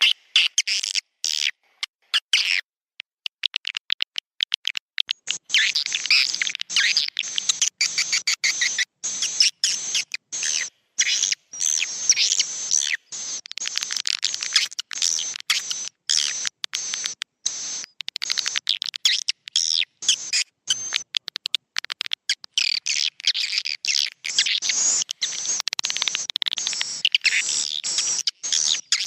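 Recorded swiftlet roosting calls (a 'suara inap walet' lure track), a dense flock twittering in rapid high chirps. The track is cut by many short gaps of dead silence. It thins out for a couple of seconds near the start, then turns dense for the rest.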